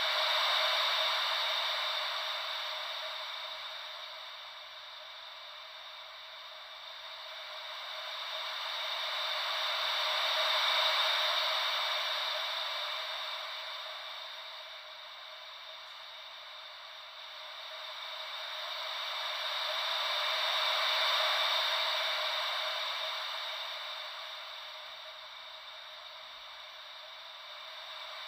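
Gentle ocean-wave white noise: a thin hiss with no low rumble that swells and fades slowly, cresting about every ten seconds, three times in all.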